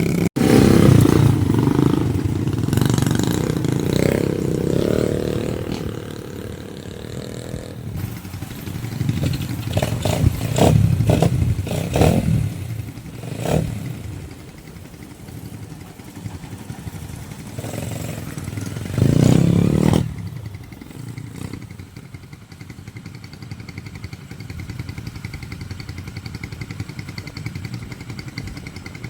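Motorcycle engine running and revving, with clattering. It is loudest in the first part, rises and falls in bursts, and drops off abruptly after about twenty seconds to a quieter running sound.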